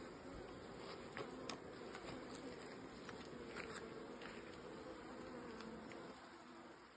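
Honeybees in an open hive, a steady buzz from many bees, with a few light clicks. The buzz weakens near the end.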